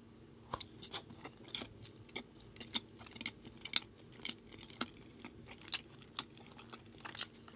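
A person chewing food close to the microphone: irregular sharp clicks and crunches of chewing, roughly two a second, starting about half a second in.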